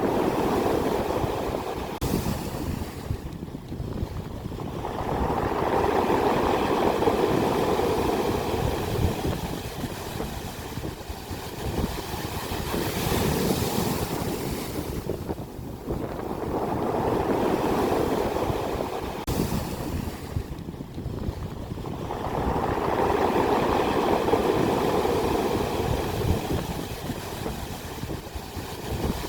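Ocean waves breaking on the shore, their roar swelling and falling back in surges about every six to ten seconds.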